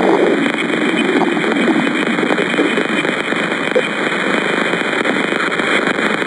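A 'planet or moon sound' recording of the kind made by turning spacecraft data into audio: a steady, dense crackling noise, like continuous static full of tiny pops.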